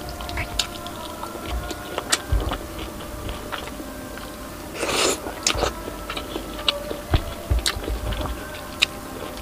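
Close-miked chewing and biting of crispy deep-fried pork knuckle (crispy pata) eaten by hand, with many sharp crackling crunches and one louder, longer crunch about five seconds in.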